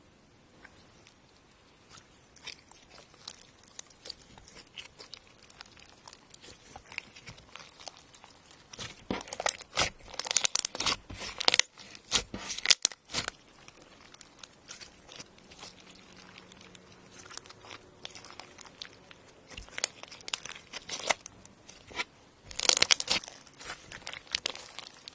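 Slime being handled and squeezed close to the microphone: scattered quick clicks and pops, with two dense, loud clusters, one about nine to thirteen seconds in and one near the end.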